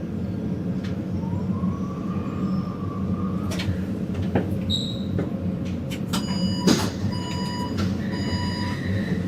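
Taipei Metro train running with a steady low rumble and hum, a whine rising slightly in pitch a little after a second in, and scattered clicks and knocks. From about six seconds in, a series of pulsing electronic beeping tones sounds over it.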